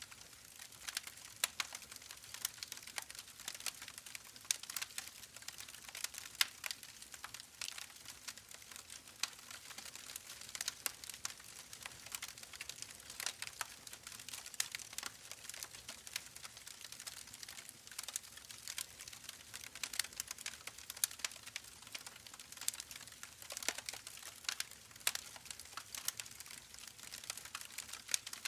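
Campfire crackling: a steady hiss with many irregular sharp pops and snaps.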